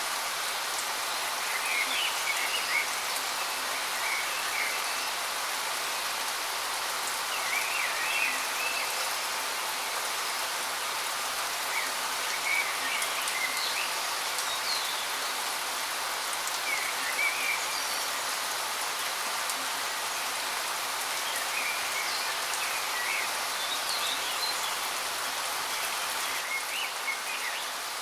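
Steady rushing water of a waterfall, with short bird chirps every few seconds.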